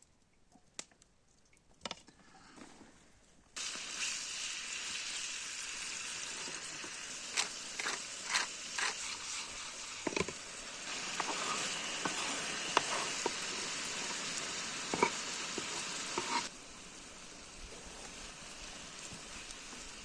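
Food sizzling as it fries over a campfire: a steady sizzle with scattered pops and crackles. It starts suddenly a few seconds in after some faint clicks, and drops to a quieter hiss near the end.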